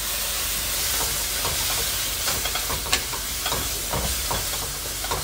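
Chopped onions and tomatoes with spices sizzling in oil in a metal pot, with a steady hiss, and a wooden spatula scraping and tapping now and then as it stirs.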